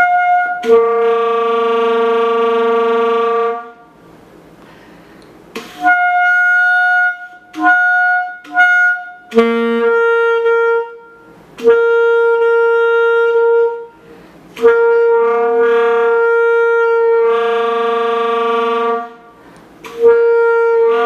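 Saxophone playing a series of held notes with short breaks, fingered as low G with the octave key pressed. The notes come out unstable, some sounding the low and high G together and some jumping up to a higher pitch, an accidental altissimo G.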